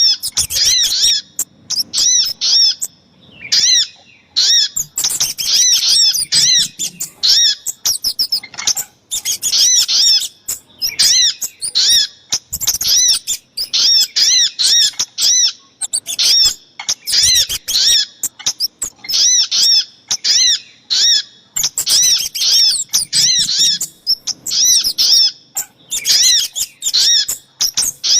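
Bird-lure recording of little spiderhunter (sogok ontong) calls mixed with kemade calls: rapid runs of short, high, arched chirps, repeated in bursts with brief pauses.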